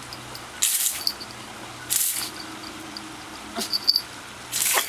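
Hose giving three short hissing bursts of spray, a second or more apart, as a puppy plays with it.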